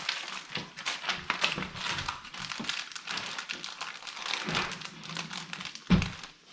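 Plastic LEGO parts bags crinkling and rustling as someone rummages through them for a small missing piece, with a single soft thump near the end.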